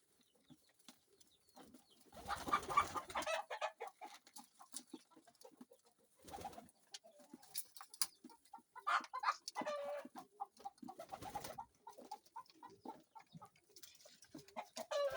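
Domestic pigeons cooing mixed with chickens clucking, in several separate bursts, with a few short clicks between them.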